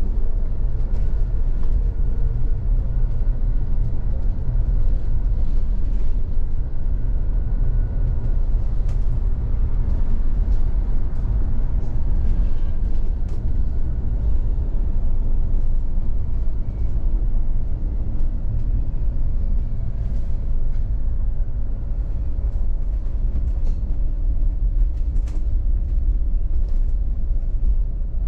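Steady low rumble of outdoor city noise, with faint scattered ticks and a few faint passing tones.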